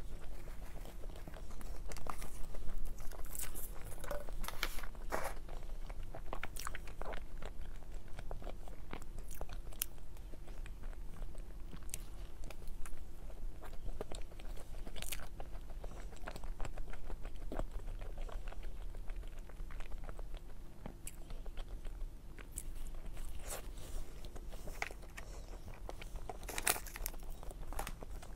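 Close-miked eating: a person chewing soft cake, with wet mouth clicks and small crunches scattered irregularly throughout, over a faint steady hum.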